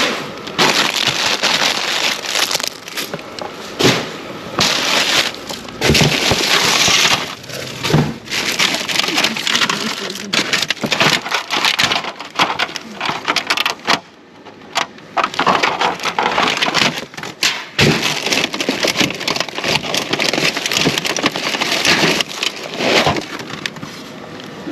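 Rustling and crinkling of packaging being handled and rummaged through, in uneven crackly bursts with a brief lull about fourteen seconds in.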